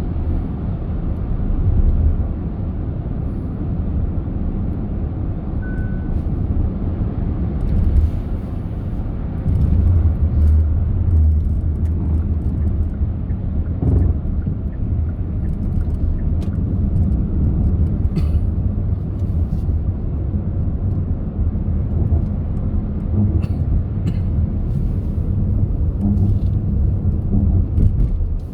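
Car driving on the road: a steady low rumble of tyre and engine noise, with a few faint clicks and one brief high beep about six seconds in.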